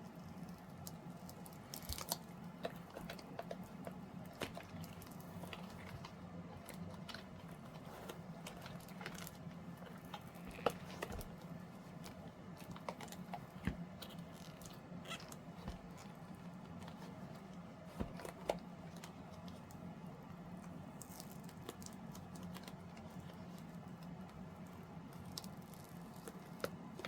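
Silicone mold being flexed and peeled off a cured resin tray, with scattered small clicks, taps and crackles as the resin comes free and is handled. A steady low hum runs underneath.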